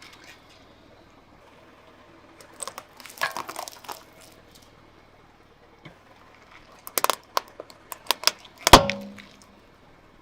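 Brittle objects cracking and crunching under a car tire: a short run of crackles and snaps, then a second, louder burst of snaps near the end with one sharp crack that rings briefly.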